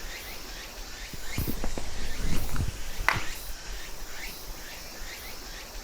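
Footsteps on the ground, with a few low thuds about a second and a half in and one sharp knock about three seconds in. Insects keep chirping in short repeated calls throughout.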